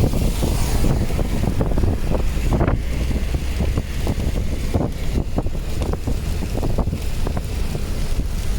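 Wind buffeting the microphone over a steady low rumble, with scattered short crackles throughout.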